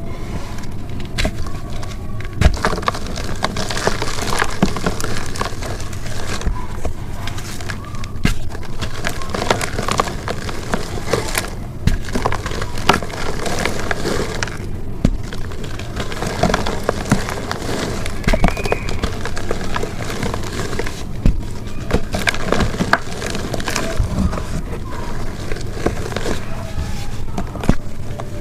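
Soft chalk being crushed and crumbled, a continuous run of crunching with many small sharp crackles and snaps.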